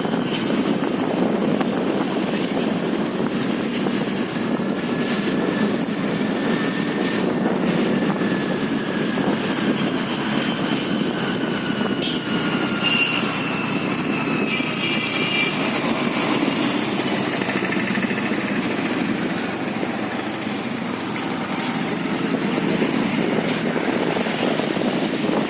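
Honda Dio scooter riding along: steady engine and wind noise, with faint whining tones that slowly drift down in pitch.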